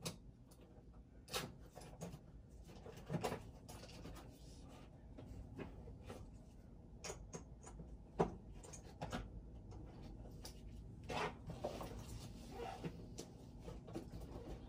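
Faint, scattered clicks, knocks and scraping of metal furnace parts and tools being handled while the gas burner assembly is taken apart, with one sharper knock about halfway through.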